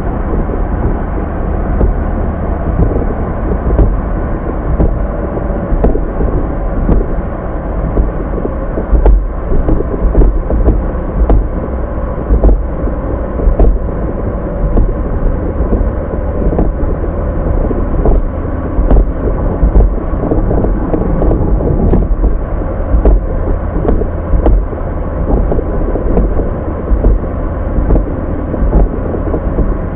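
A car driving, heard through a dashcam microphone: steady low road and engine rumble with frequent short knocks and bumps from the road surface and cabin.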